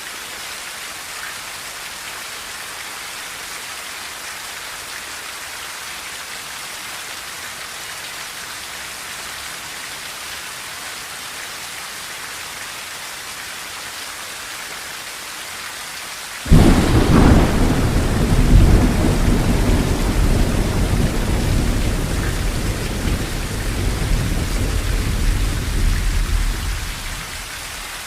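Steady rain drumming on a tin roof, then about two-thirds of the way in a clap of thunder breaks suddenly and rumbles on for some ten seconds before dying away near the end.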